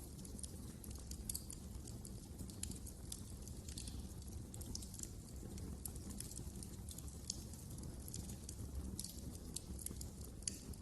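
Wood fire crackling: irregular sharp snaps and pops scattered over a low, steady rumble.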